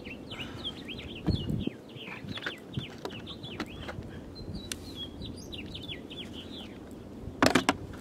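Small birds chirping, a quick run of short calls that slide downward in pitch. There is a thump about a second in, and a louder brief clatter of wood knocking near the end.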